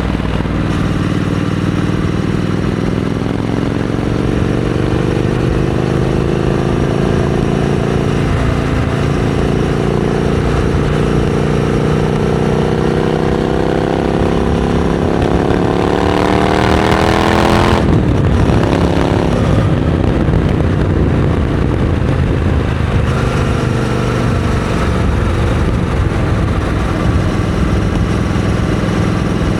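Triumph Scrambler 900 parallel-twin engine running through a Vance & Hines exhaust. Its revs climb slowly for over ten seconds, then drop off sharply about two-thirds of the way in, and it settles back to a steady lower speed.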